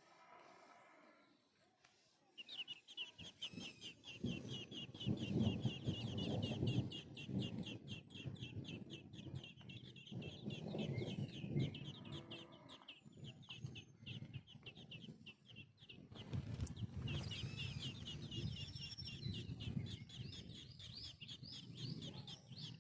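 Baby birds peeping: a rapid, continuous run of high-pitched chirps, typical of chicks calling or begging. The chirping starts about two seconds in, eases off midway, and comes back strongly after a sharp knock about sixteen seconds in, with bouts of low, muffled noise underneath.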